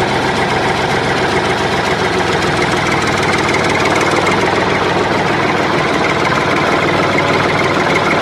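A machine running steadily with a fast rattle, like a small engine, cutting off suddenly at the end.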